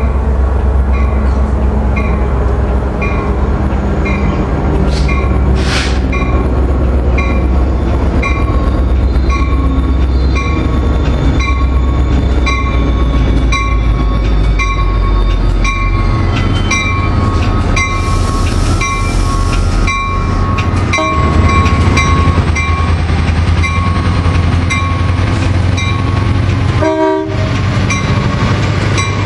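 Coaster commuter train moving through the station with its diesel locomotive rumbling, a bell ringing steadily about twice a second, and the train horn sounding.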